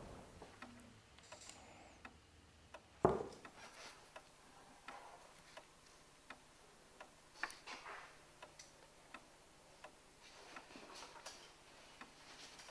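Faint, irregularly spaced ticks and light clicks of pencils on paper and desktops, with one louder knock about three seconds in.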